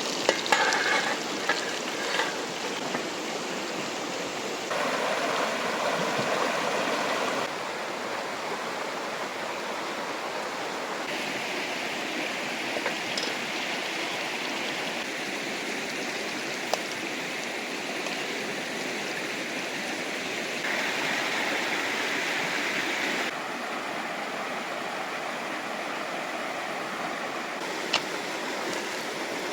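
Fast river water rushing steadily, its tone shifting abruptly several times. A few sharp clicks come in the first couple of seconds, and single ones come later.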